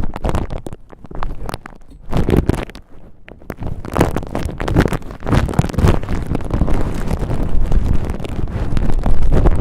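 Cotton ball rubbed and scrunched roughly right against the microphone: scratchy rustling with a heavy rumble of mic handling. It comes in uneven strokes with short pauses at first, then runs on without a break from about four seconds in.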